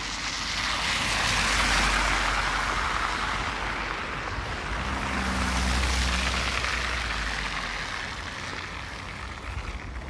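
Road traffic passing: two vehicles go by, each with a rush of tyre noise that swells and fades, the first peaking about two seconds in and the second about six seconds in. The second carries a low engine hum.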